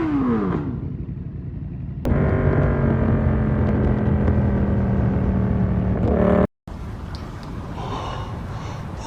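Yamaha MT-07 parallel-twin engine through an SC Project exhaust with the dB killer fitted. Its revs fall away at the start and drop to a low rumble. About two seconds in it jumps to a steady drone at held revs, which cuts off abruptly about six and a half seconds in, followed by a quieter rumble.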